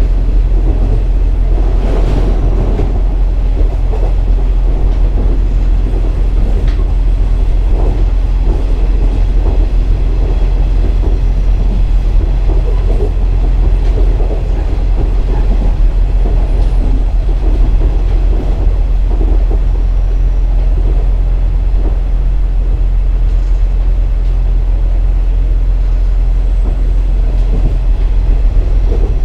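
Inside a KiHa 47 diesel railcar under way: the underfloor diesel engine drones steadily over the rumble of wheels on rail. Faint clicks from the track are scattered through it.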